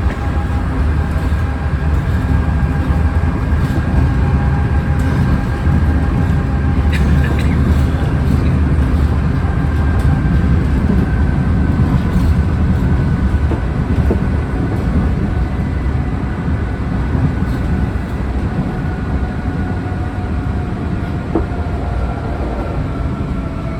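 PATCO Speedline rapid-transit train running on the rails, heard from inside the car: a steady, heavy rumble with a faint whine that slowly drops in pitch.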